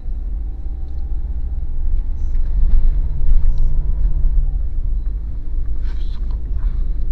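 Daihatsu Terios SUV driving, heard from inside the cabin: a steady low rumble of engine and road noise that swells a little in the middle, with a faint rising whine that fades out partway through and a few light ticks.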